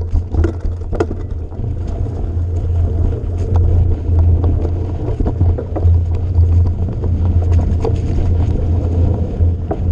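A vehicle running over rough ground: a steady, loud low rumble with scattered knocks and rattles throughout.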